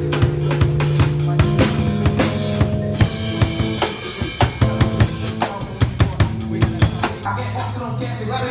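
Music with a drum-kit beat: quick bass drum, snare and rimshot hits over held low pitched notes.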